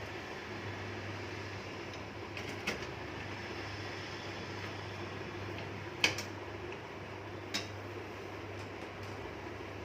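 Three short sharp clicks and taps, the loudest about six seconds in, from a screwdriver and screws as a motherboard is screwed into a computer case, over a steady low hum.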